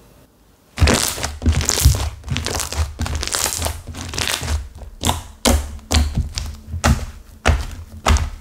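Hands squeezing and kneading a clay-mixed Flora slime whose clay has set hard, giving a quick, uneven run of crunchy crackles and soft thunks that starts about a second in.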